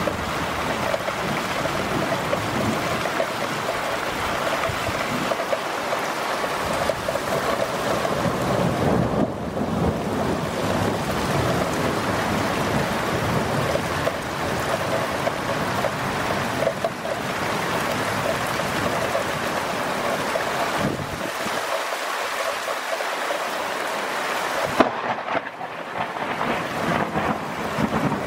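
Steady rain falling in a thunderstorm, an even hiss, with one sharp click about 25 seconds in.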